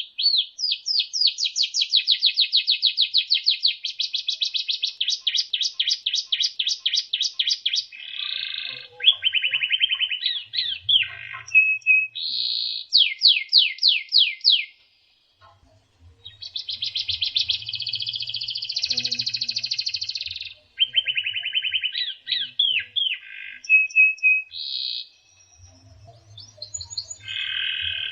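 White-rumped shama (murai batu) song: long fast series of rapidly repeated high notes and trills, broken into varied phrases, with a short pause about halfway through.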